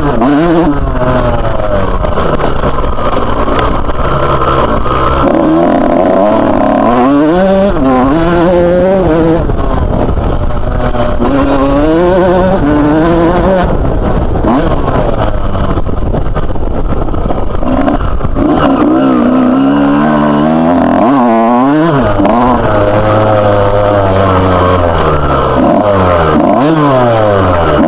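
Two-stroke motocross bike engine revving hard and shifting through the gears, its pitch climbing and dropping again and again as the throttle opens and closes.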